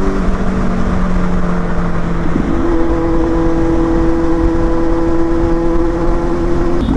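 Kawasaki Z800's inline-four engine running at a steady cruise, with wind rush. The engine note shifts briefly about two and a half seconds in, then holds steady again.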